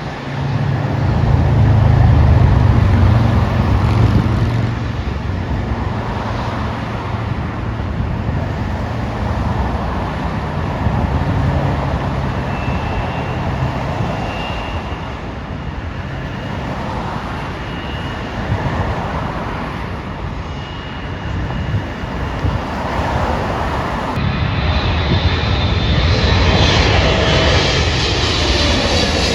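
Jet airliner engines rumbling as a plane passes, loudest in the first few seconds, with a thin high whine in the middle. Near the end the sound changes suddenly to a brighter rushing noise.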